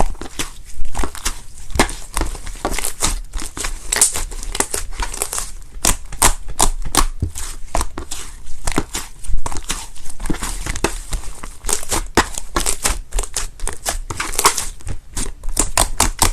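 Slime being squeezed and pressed by hand, giving off a dense run of sharp crackles and pops, several a second, with no let-up.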